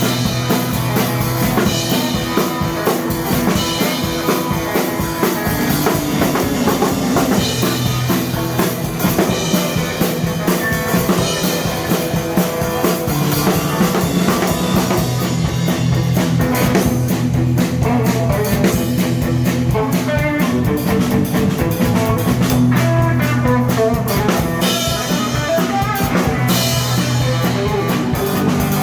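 Live blues band playing an instrumental break between sung verses: guitar over a steady drum kit beat.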